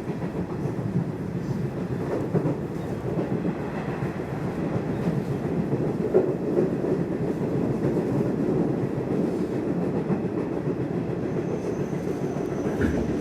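Nishitetsu Tenjin-Ōmuta Line electric train running on the line, heard from inside the car: a steady rumble of wheels on rail.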